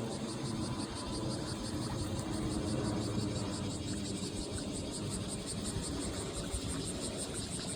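Insects chirping in fast, even pulses over a steady low rumble.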